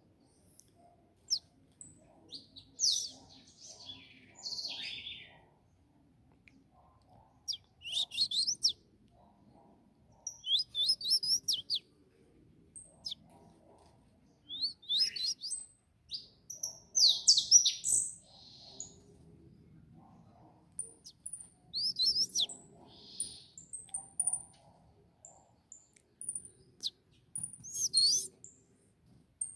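Small caged songbirds chirping and singing in short, quick phrases every few seconds. In the later part there are also thin, high single notes.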